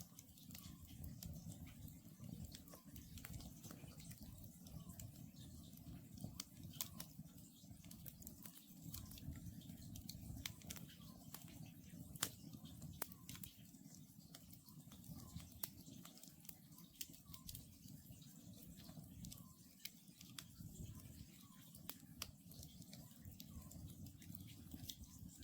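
Wood campfire crackling, with frequent small sharp pops and one louder pop about twelve seconds in, over a low steady rumble. Faint calls of an Oriental scops owl come from far off every few seconds.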